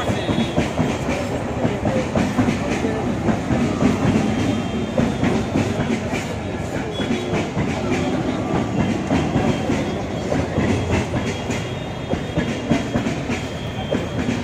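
Electric multiple unit suburban local train passing at speed, its wheels clattering steadily over the rail joints.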